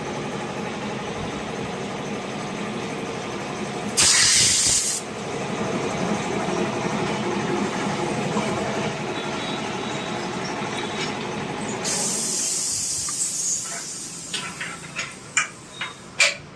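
Steady machine hum, with a loud burst of air hiss about four seconds in that lasts about a second, and a second hiss starting about twelve seconds in that fades out; a series of sharp clicks and knocks follows near the end.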